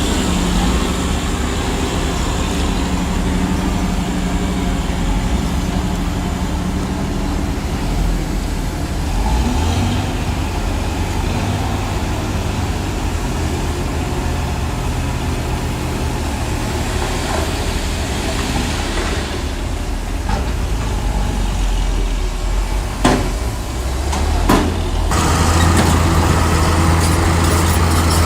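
Heavy diesel engine of earth-moving machinery running steadily, with two sharp knocks a second and a half apart near the end, after which the engine gets louder.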